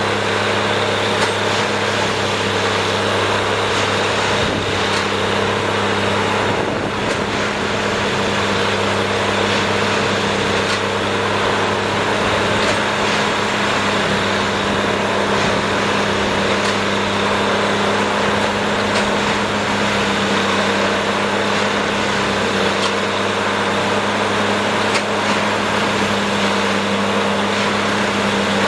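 Plasser & Theurer Duomatic 08-32 ballast tamping machine running at work: a steady, loud machine drone with constant low hums and a thin high whine over it.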